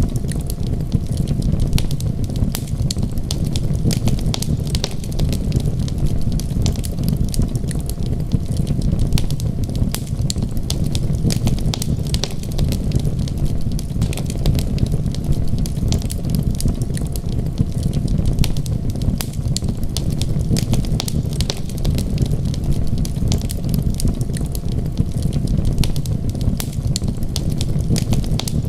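Wood fire crackling, with many quick sharp pops and snaps over a steady low rumble.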